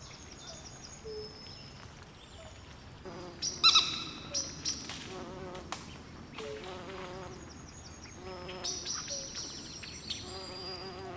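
Swamp ambience of insects chirping and trilling, with frogs calling in short repeated bursts. One loud sharp call rings out about three and a half seconds in.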